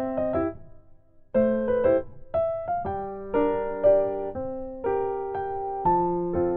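Background piano music: a gentle melody of single notes and chords, each struck and fading, with a brief pause about a second in.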